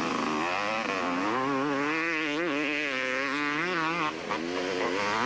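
250cc two-stroke motocross bike engine revving on the track, its pitch rising and falling with the throttle from about half a second in until about four seconds in.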